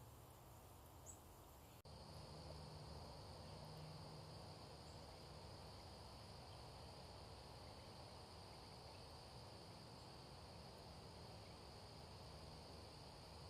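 Faint, steady high-pitched chorus of insects such as crickets, starting abruptly about two seconds in, over a low outdoor background rumble. A single brief high chirp comes about a second in.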